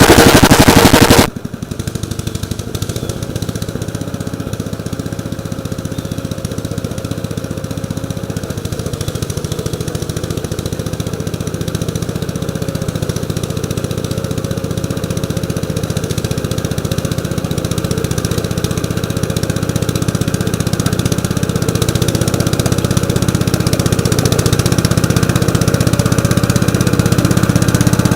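1948 Gravely Model L walk-behind tractor's single-cylinder engine running just after a cold start. It is loud until about a second in, then drops to a quieter steady run that slowly grows louder.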